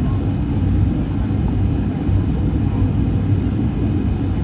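Steady low rumble of an airliner's engines and airflow heard from inside the passenger cabin during the landing.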